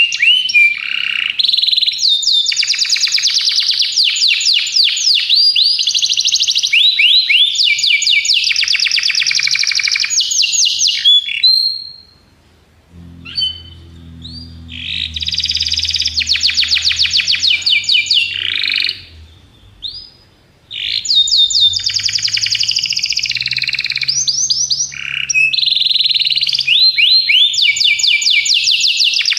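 Domestic canary singing long, continuous phrases of rapid trills and rolling repeated notes, high-pitched, with two short breaks about twelve and twenty seconds in.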